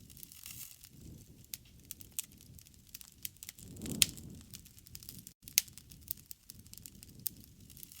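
Wood campfire crackling, with irregular sharp pops and snaps over a low rumble of burning. The loudest pop comes about four seconds in, during a brief swell of the rumble.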